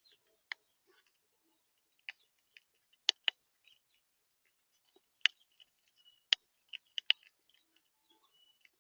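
Irregular sharp taps and clicks, some in quick pairs, typical of birds pecking at seed on a feeder.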